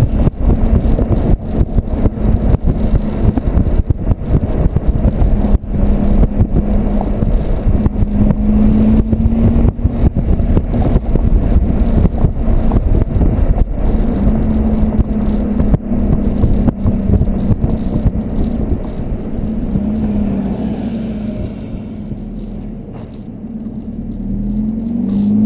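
Volkswagen Golf 2.0 TDI diesel with a 3-inch Cortek exhaust and high-flow cat, driving under load with a droning exhaust note and wind buffeting the microphone. It eases off late on, then the note climbs again as it accelerates near the end.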